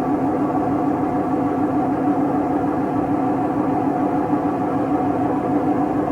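Siemens WM14T490 washing machine running with a steady, loud drone that holds a few constant tones, from its drum turning on worn bearings: the machine has bearing damage.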